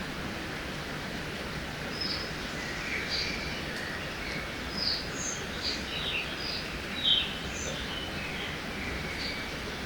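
Forest ambience by a river: a steady rush of flowing water under many short, high bird chirps and calls from several birds, one louder call about seven seconds in.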